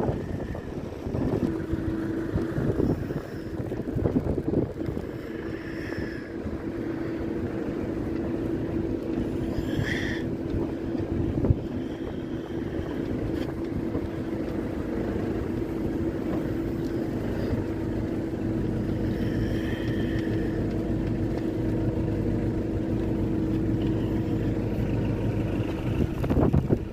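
A vehicle engine running at a steady drone, with wind buffeting the microphone.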